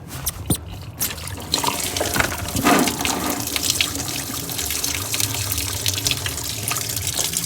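Engine coolant pouring out of the Duramax's cooling system and splashing, building to a steady gush about a second and a half in: a spill while the radiator is being removed.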